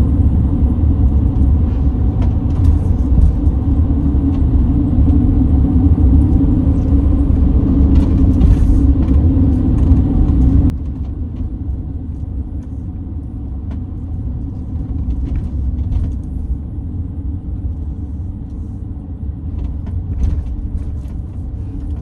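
Motorhome driving on a mountain road, heard as a steady low rumble of engine and tyres with light clicks and rattles. About halfway through the level drops abruptly and the rumble goes on quieter.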